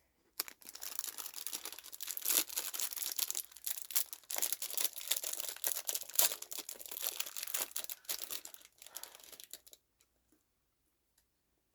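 Plastic snack wrapper crinkling and tearing as a cookie packet is opened, a dense crackle lasting about nine seconds that stops shortly before the end.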